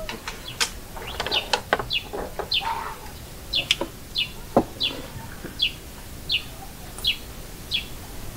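A small bird repeating a short, high chirp that dips slightly in pitch, about three calls every two seconds. A few sharp clicks and knocks come in the first half.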